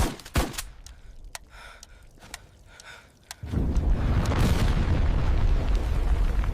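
Film sound effects: two sharp impacts at the start and a few faint clicks, then about three and a half seconds in a loud, deep explosion rumble sets in and keeps going.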